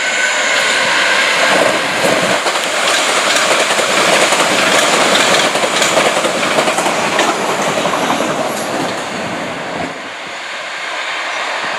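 A train passing close by, its wheels clattering over the rail joints, with a high wheel squeal in the first second or so. The noise eases about ten seconds in.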